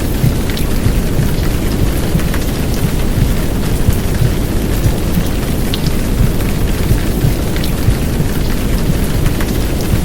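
Heavy downpour of rain layered over a dense, steady low whooshing womb-sound noise, with scattered sharp drop hits.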